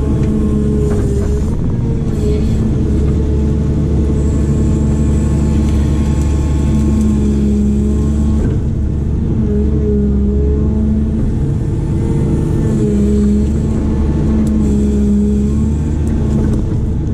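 Diesel engine of a digging machine running with a steady low drone, its pitch dipping and coming back up every few seconds as the work loads it.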